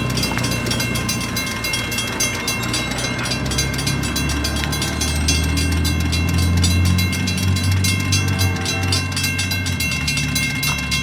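A train passing, with a deep diesel locomotive rumble that swells in the middle and fades near the end. Over it run a steady high ringing and fast, even ticking.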